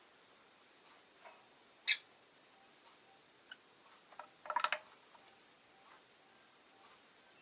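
Rosy-faced lovebird giving one sharp short chirp about two seconds in, then a brief run of chattering calls past the middle, with faint scattered ticks and clicks in between.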